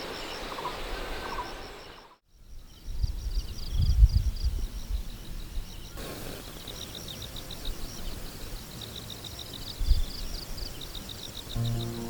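Countryside ambience of rapid, high-pitched pulsed chirping repeating throughout. The sound drops out briefly about two seconds in, and low rumbling thumps come around four and ten seconds in.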